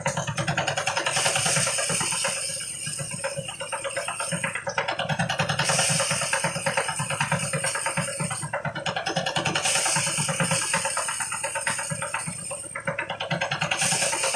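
Engine-driven rice thresher running with a fast, even pulse, and a hissing rush that swells and fades about every four seconds.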